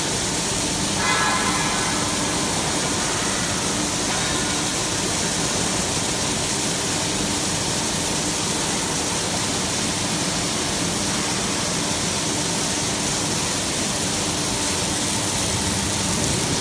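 Robotic arc-welding torch at work, a steady hiss with a brief whine about a second in.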